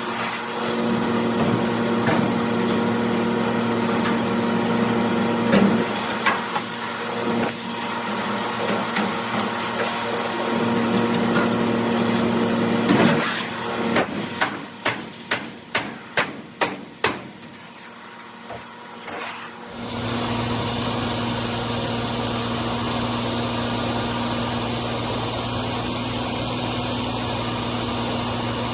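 Tractor-driven hammermill grinder-mixer running with a steady drone and scattered knocks, then a run of about eight sharp knocks, roughly two a second. After a short quieter stretch, a different steady lower hum starts suddenly.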